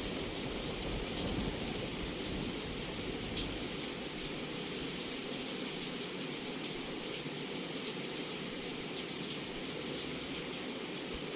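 Heavy rain pouring steadily against a window, with scattered sharp drop taps. The tail of a low thunder rumble dies away in the first few seconds.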